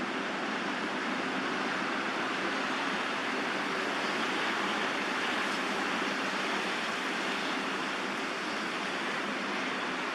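Steady rushing background noise with no distinct events, most of it in the middle range.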